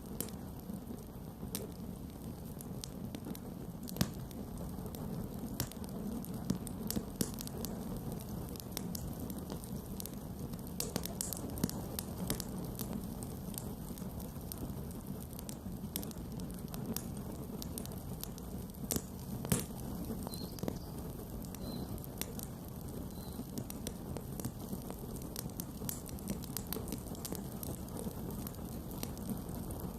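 Campfire burning, with a steady low rush of flame and irregular sharp crackles and pops of burning wood. One louder pop comes about four seconds in and another a little before twenty seconds.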